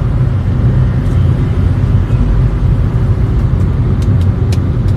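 Steady low rumble of a car in motion, with a few faint ticks near the end.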